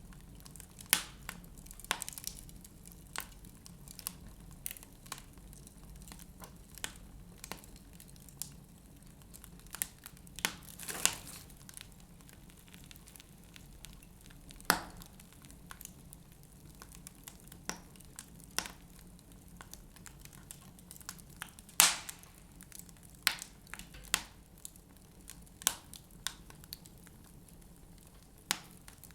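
Wood fire burning in a fireplace, the logs crackling with irregular sharp pops, a few louder ones standing out about 11, 15 and 22 seconds in.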